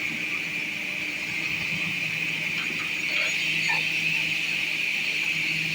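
MJ6132C sliding table panel saw running steadily: a low motor hum under a high, even whine from the spinning blade.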